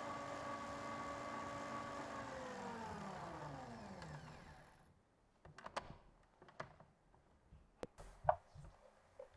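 Electric mixer motor running steadily, then switched off and winding down in a falling whine that stops about five seconds in. A few light clicks and knocks follow.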